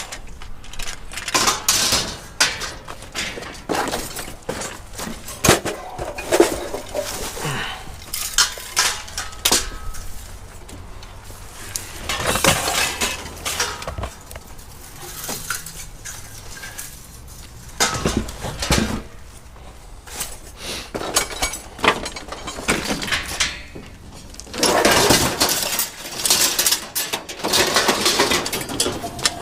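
Scrap metal and junk clanking and clattering as pieces are handled, pulled from a pile and tossed aside, with irregular knocks and crashes throughout.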